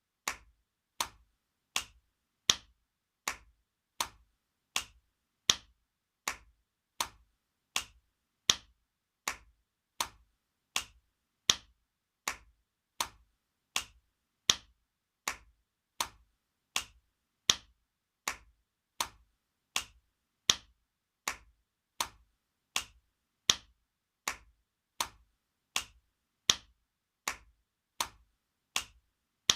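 Spanking sound effect: a sharp smack of a hand on skin, repeated evenly about four times every three seconds, some hits louder than others.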